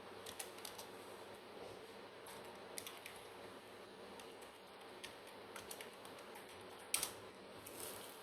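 Scattered light clicks and taps from handling small hard objects, with one sharper click about seven seconds in.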